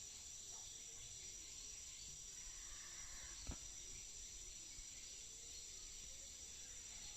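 Insects, crickets or similar, chirring in a steady high drone, with a single sharp click about halfway through.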